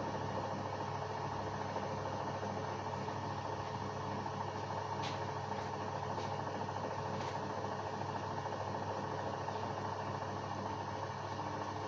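LG WD-1054FB washing machine running with a steady motor hum, with a few faint clicks about halfway through.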